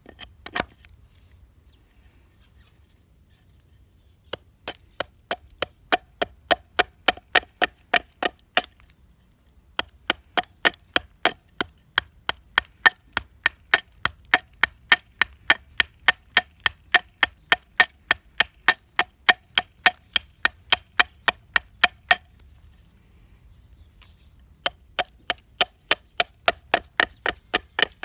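Chopping strikes on hard wood, about three a second, each a sharp knock with a short ring. The strikes come in long runs broken by brief pauses.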